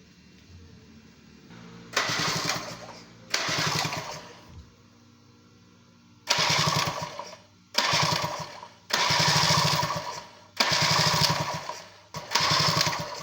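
Aprilia RS125 single-cylinder two-stroke engine revved in sharp throttle blips, seven in all, each dropping back to a quiet idle.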